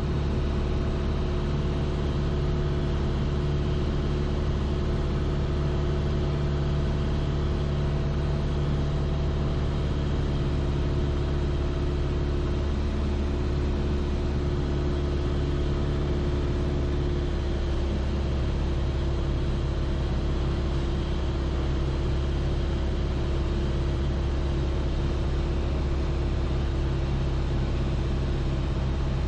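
Piper Archer's four-cylinder Lycoming piston engine and propeller droning steadily in cruise flight, heard inside the cockpit through the pilot's headset.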